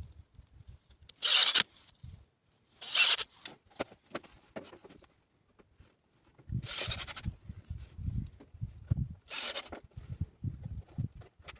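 Four short rasping scrapes, unevenly spaced, with soft low knocks and rustling in between, typical of hand-tool work on wood or soil.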